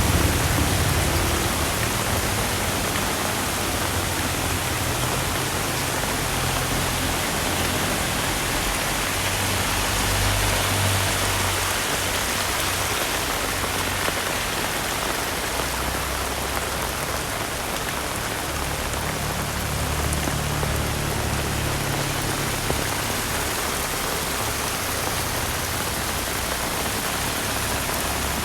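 Heavy rain falling steadily, an even hiss of drops on surfaces, with a low rumble that comes and goes underneath.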